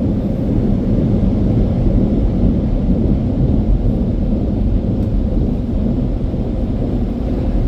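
Automatic car wash air dryer blowing, a steady, loud low rush of air from its fast-spinning top nozzle.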